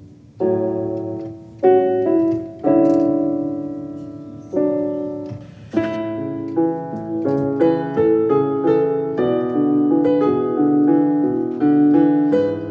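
Solo piano background music: slow struck chords left to ring for the first half, then quicker flowing notes from about six seconds in.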